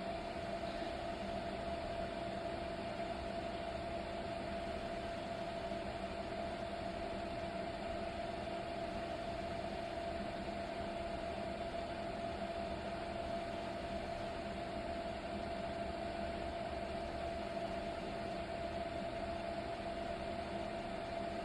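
Vaniman SandStorm Professional sandblaster running steadily: a constant air hiss with a steady hum under it, unchanging throughout.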